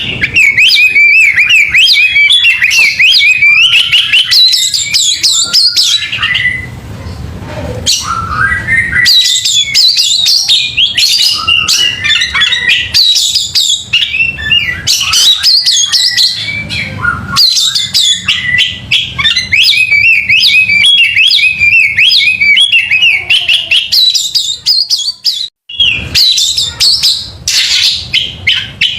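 Oriental magpie-robin (kacer) singing a loud, fast run of varied chirps, whistles and trills, with a short lull about seven seconds in.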